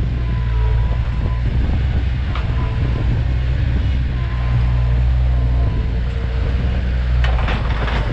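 Bobcat 753 skid-steer loader working dirt under load, its diesel engine running steadily with a thin whine over it. There is a single knock about two seconds in and a quick cluster of clanks near the end.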